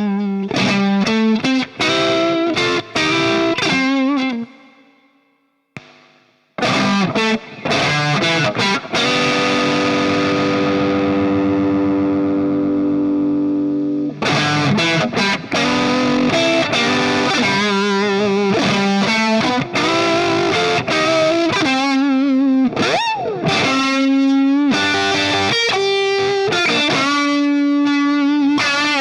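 Electric guitar played through a DemonFX Jan Ray overdrive pedal into a NUX Amp Academy amp modeller, with a lightly distorted tone. Picked phrases stop and fade to silence about five seconds in. After that come a chord held for several seconds and lines with string bends and vibrato.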